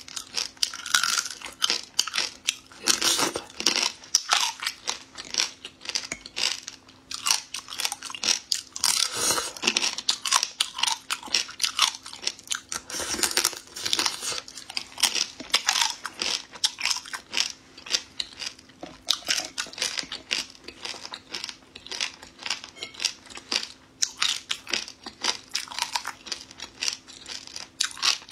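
Close-up eating sounds of a person biting and chewing crab claw meat, with many irregular crackling crunches as the shell is worked between the teeth.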